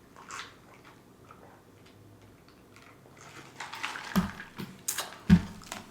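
Close-miked eating sounds as a pizza puff is bitten into. It is quiet for a few seconds, then a run of mouth clicks and smacks begins, with two sharper knocks.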